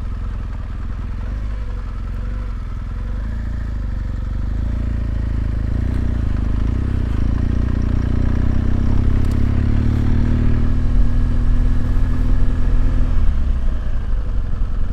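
BMW R1200GS Adventure's boxer-twin engine running under way, pulling harder with pitch and level rising from about four seconds in, then easing off near the end.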